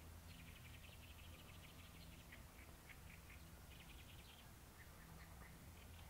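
Small birds chirping faintly in quick clusters of short notes, over a low steady wind rumble.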